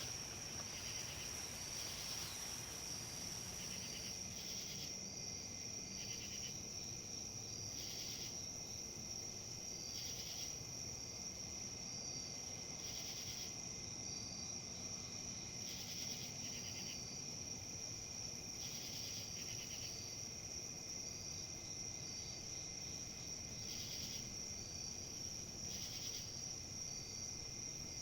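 A steady, high-pitched insect trill, with short buzzy insect calls repeating about every two seconds, over a faint low rush.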